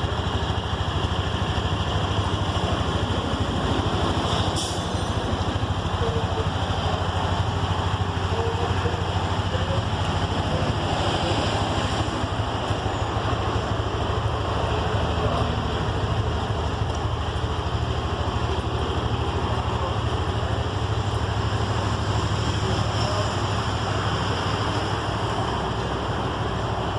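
Honda Elite 125 scooter's single-cylinder four-stroke engine idling steadily.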